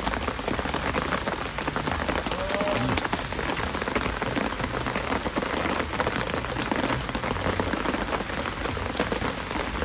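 Steady heavy rain, a dense patter of countless drops striking a surface.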